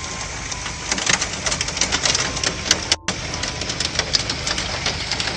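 Hail falling with rain, many hailstones striking a hard surface in a dense, irregular clatter of sharp clicks, with a brief break about three seconds in.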